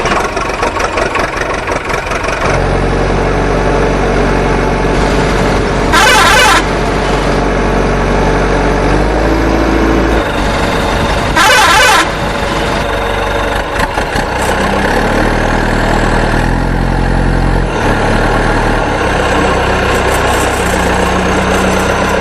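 Vehicle engine sound effects running steadily, the pitch of the engine stepping up and down every few seconds, with two short, loud horn blasts about six and twelve seconds in.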